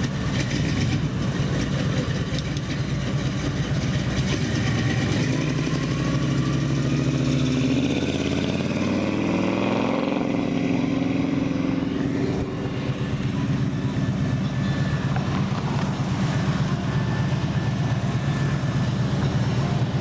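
Cars' engines running as they drive slowly past in a line. About halfway through, one engine note rises and then falls away as a car passes.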